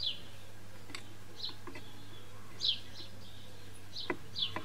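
A small bird chirping outside: short, high, falling chirps every second or so, with a few faint clicks in between.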